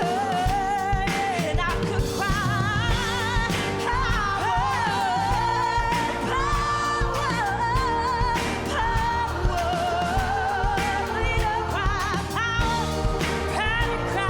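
Music: a pop song sung live over band backing, the voice holding long notes with vibrato.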